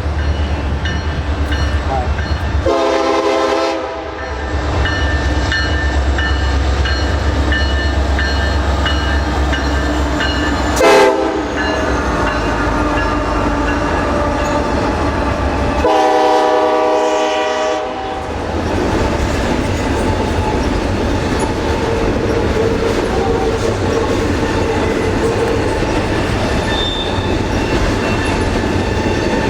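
Union Pacific diesel locomotives leading a double-stack train past, with a heavy low engine rumble. The air horn sounds twice, a short blast a few seconds in and a longer one a little past the middle. Between the two there is one sharp knock, and the train carries on as a steady rumble and clatter of cars rolling by.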